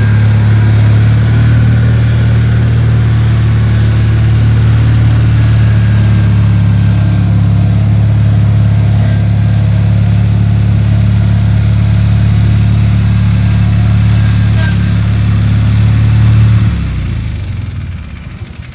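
Small riding lawn tractor engine running steadily at a constant speed, shut off about two seconds before the end and running down.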